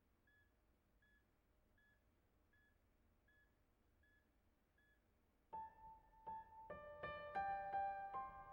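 Background piano music. A faint high note repeats steadily for about five seconds, then piano notes come in and build into a gentle melody.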